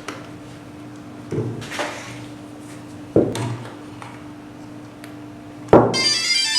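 A few separate hard knocks and clunks, as of rigid hardware being handled, over a steady low electrical hum. Near the end comes a short, rapid, high electronic trilling beep.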